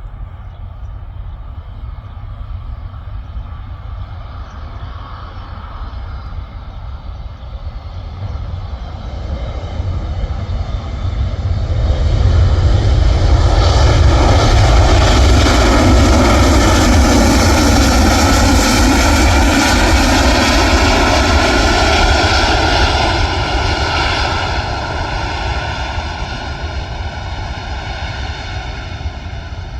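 An airliner's engines passing by on takeoff or landing. The engines build from about ten seconds in, are loudest through the middle, then fade, their tones dropping slightly in pitch as the aircraft goes past.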